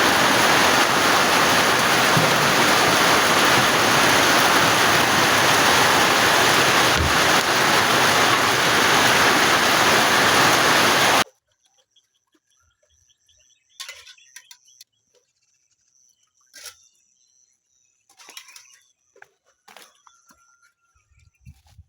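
Heavy rain pouring, a loud steady hiss that cuts off abruptly about halfway through. After that it is quiet, with a few faint bird chirps and a thin, steady, high insect tone.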